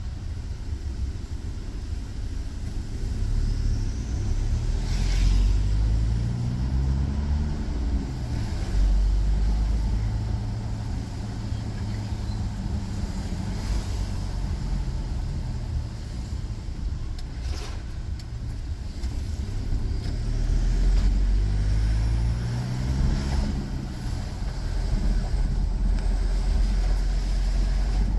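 Engine and road noise of a moving car: a steady low rumble, with the engine note rising in pitch twice as it accelerates through the gears.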